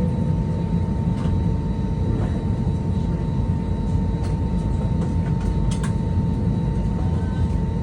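Airbus A320 cabin noise: a steady low rumble with a thin steady whine from the engines, plus a few light clicks and rattles.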